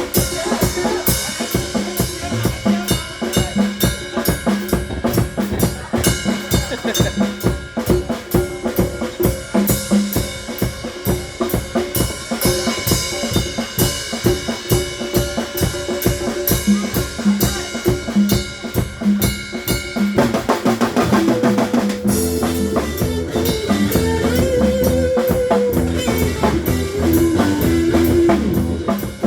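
Live band music led by a drum kit keeping a steady beat with bass drum and snare, over held chords. About twenty seconds in, a quick drum fill leads into a heavier section with bass guitar and a melody line.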